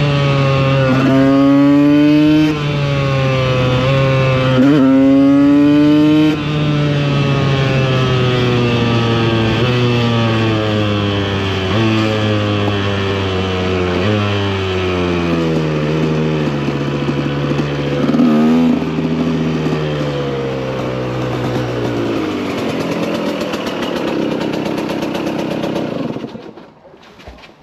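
KTM EXC 125 two-stroke single-cylinder engine accelerating hard, its pitch climbing and dropping sharply at each upshift, then slowly falling as the bike slows with a few downshifts. It runs low near the end and cuts off suddenly about 26 seconds in.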